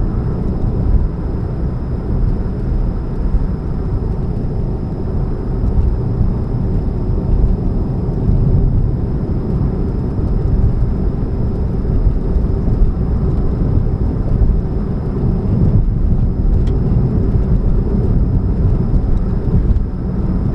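2013 Chevrolet Spark running with a steady low rumble and hum. The owner puts the humming down to an exhaust leak at the catalytic converter.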